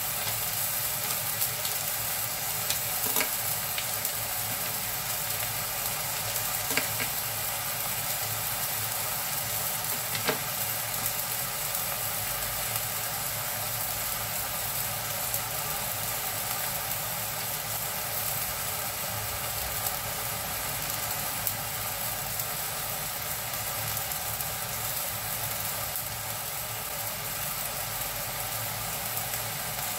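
Beef and tempeh pieces frying in a stainless steel wok, a steady sizzle, with a few light clicks about three, seven and ten seconds in.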